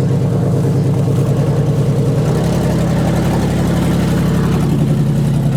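Two-stroke chainsaw engine running at a steady idle.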